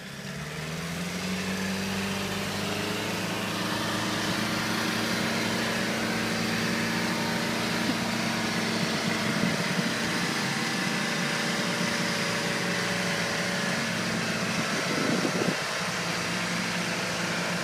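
Off-road vehicle's engine revving up in the first second, then held at steady high revs, as under load on the trail.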